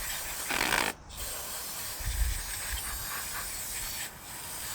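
Aerosol carburetor cleaner spraying in short hissing bursts onto a dirty mower carburetor.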